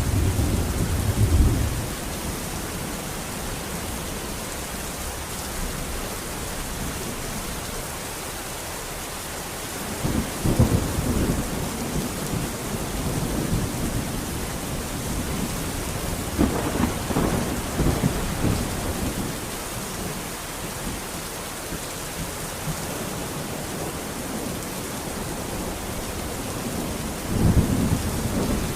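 Steady rain falling, with thunder rumbling four times: at the start, about ten seconds in, around seventeen seconds in, and near the end.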